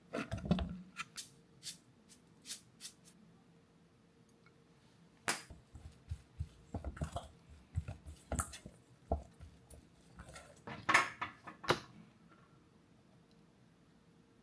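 Scattered clinks and knocks of kitchen utensils and dishes being handled during food preparation, with a busier run of clattering about eleven seconds in. A faint steady hum sits underneath.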